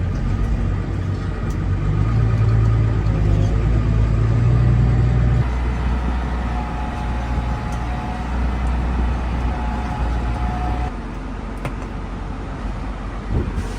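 Tractor engine running steadily with a deep hum; the note changes about five seconds in, when a higher steady whine joins, and the sound drops back near the end.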